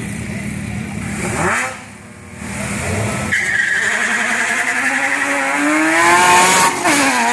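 Porsche GT4 flat-six engine and exhaust: a brief swell and a drop about a second and a half in, then the engine pulls hard with its pitch climbing steadily, drops sharply at an upshift near the end, and climbs again.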